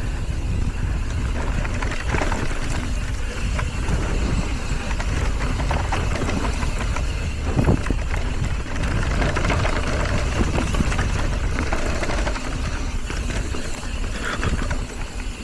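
Mountain bike riding over a rocky trail: steady wind rush on the microphone with tyre noise and frequent knocks and rattles from the bike.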